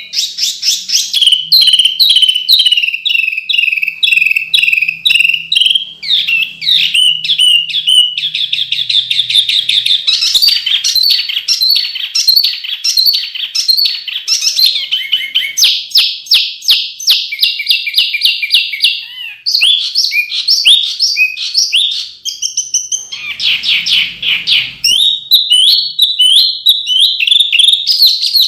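Songbird singing a continuous string of rapid, sharp, densely packed trills and chirps. The phrases change every few seconds and stay high-pitched.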